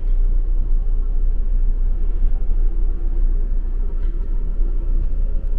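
Steady low rumble of an Amtrak passenger train running at speed, heard from inside a sleeper roomette, with a faint hum coming and going.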